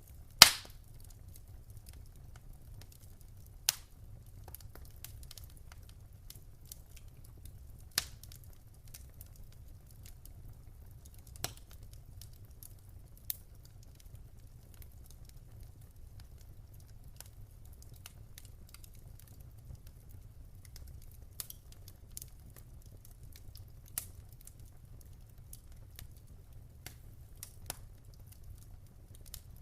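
Wood fire crackling: sparse, irregular sharp pops, the loudest about half a second in, over a low steady rumble.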